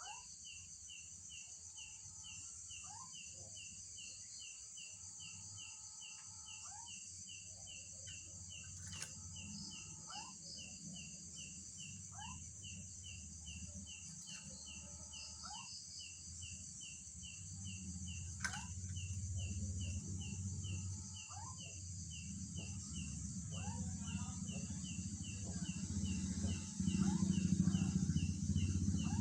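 Night outdoor sound: insects shrilling steadily, with one chirping about twice a second throughout, and short calls and down-sweeping notes coming every second or two. A low rumble builds and gets louder over the last few seconds.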